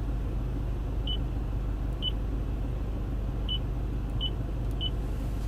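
Toyota infotainment system giving five short, identical high beeps as touchscreen menu items are pressed, over a steady low hum in the car's cabin.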